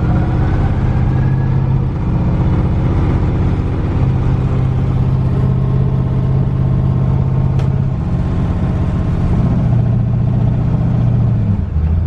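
Twin-turbo LS V8 in a Fox Body Mustang running at low speed under light throttle: a loud, deep, steady exhaust drone that shifts slightly in pitch a few times and drops near the end as the revs fall.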